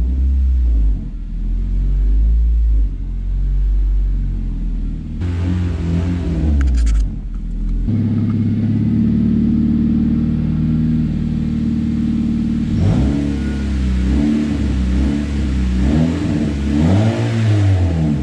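2010 Honda Civic engine running in gear with the wheels off the ground, revved up and down several times in the second half. It is being checked for a vibration that the owners trace to an engine mount.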